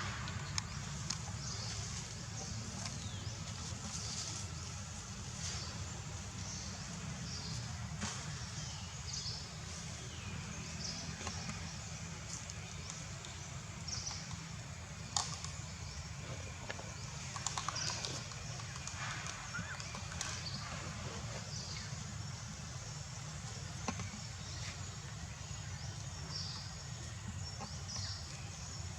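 Many short, high-pitched animal squeaks and chirps scattered throughout, with a few sharp clicks, over a steady low rumble.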